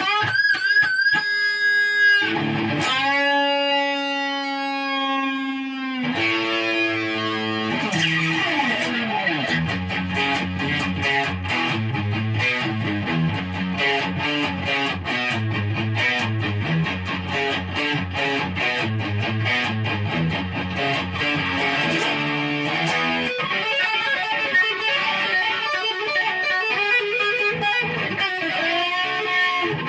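Electric guitar playing, with long held, bending notes for the first six seconds, then a fast picked riff from about eight seconds in.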